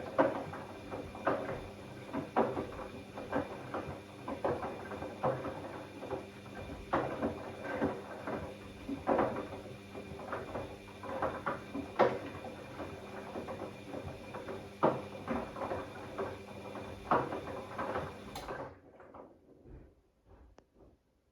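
Bosch Classixx 6 front-loading washing machine tumbling its load at the start of the cycle during fill and load sensing: irregular soft knocks and clunks of wet laundry in the turning drum over a steady hum and hiss. The hum and hiss cut off abruptly near the end, leaving a few fading knocks.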